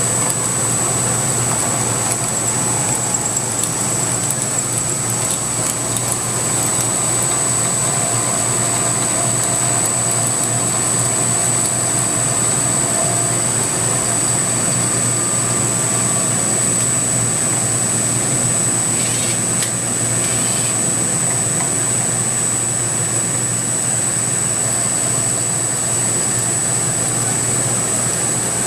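CNC milling machine with a belt-drive spindle running steadily as a high-speed steel 3-flute end mill takes a slow finishing pass, with a constant high whine over a low hum.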